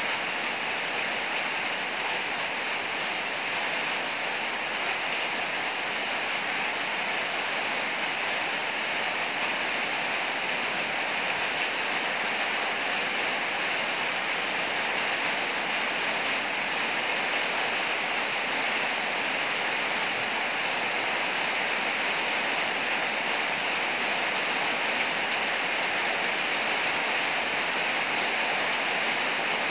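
Heavy rain pouring steadily, a dense even hiss with no thunder claps.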